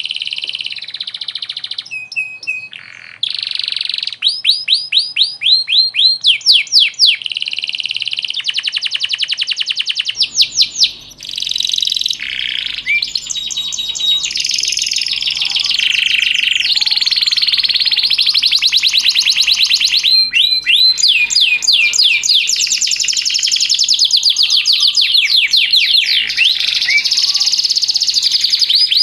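Domestic canary singing continuously in long rolling phrases: rapid runs of repeated sweeping notes and trills that change every second or two. A faint low steady hum comes in about a third of the way through.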